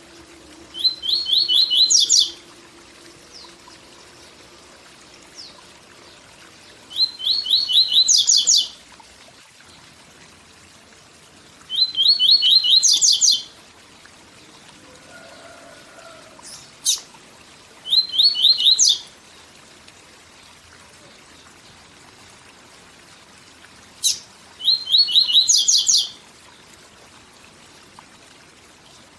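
Papa-capim seedeater singing its 'tui tui zel zel' song in five short phrases spaced about five seconds apart. Each phrase is a quick run of high notes, and two single sharp notes come before the last two phrases. A steady waterfall rush runs underneath.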